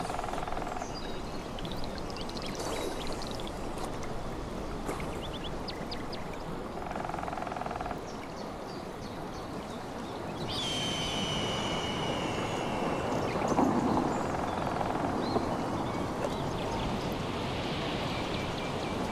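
Steady rush of a clear mountain stream, with short high calls over it and one longer high call about ten seconds in.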